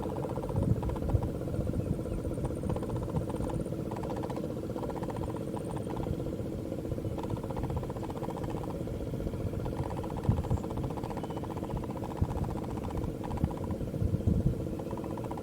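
An engine running steadily, a constant hum over a low rumble.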